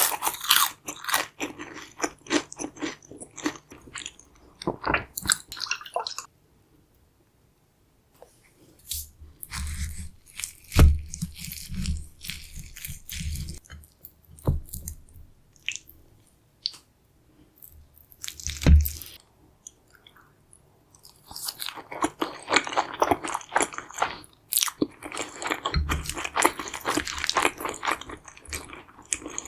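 Close-miked biting and chewing of a crisp deep-fried chimichanga, with dense crunching crackles. The crunching stops after about six seconds and falls silent briefly. Softer chewing with a few dull low thumps follows, then steady crunching resumes near the end.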